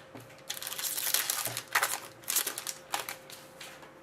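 Plastic packaging crinkling and rustling as trading cards are handled: a dense stretch of crinkling about half a second in, then a few shorter rustles.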